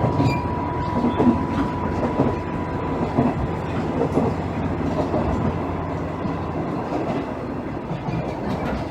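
Running sound heard inside a JR East KiHa 110-series diesel railcar (KiHa 112-103). The diesel engine and running gear hum steadily under scattered wheel clicks. A steady whine fades out about halfway through.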